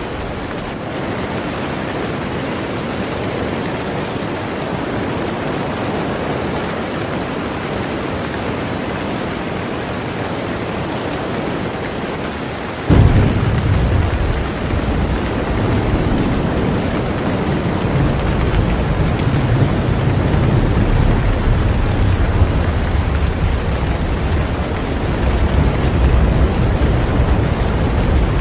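Heavy rain falling steadily on a boat. About halfway through, a sudden clap of thunder breaks in and rolls on as a deep rumble under the rain.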